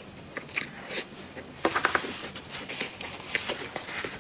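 Close-miked eating sounds: wet clicks and smacks of chewing a soft cream-filled dessert. Partway through there is a louder burst of paper crinkling as the paper box is handled.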